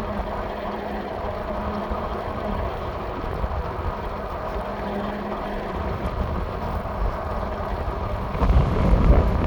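Strong wind buffeting the microphone during an e-bike ride: a steady low rumble that grows louder in a stronger gust about a second before the end.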